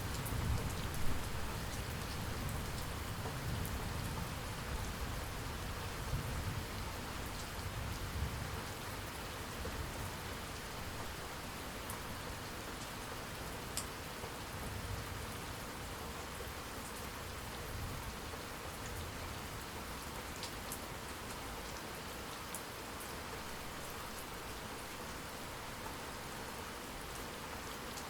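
Steady rain falling, with scattered sharper drop ticks. A low rumble of distant thunder dies away over the first several seconds, leaving only the rain.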